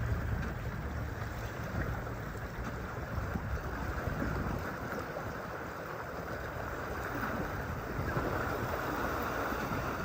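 Steady rumble and wind rush of a moving vehicle, with wind buffeting the microphone.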